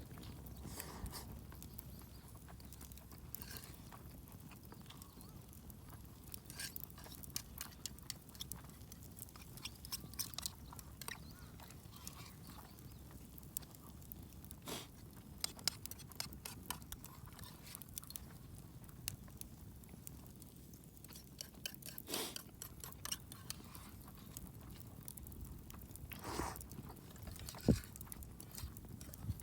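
Quiet eating sounds: scattered small clicks and clinks of a utensil against a metal mess tin, with chewing.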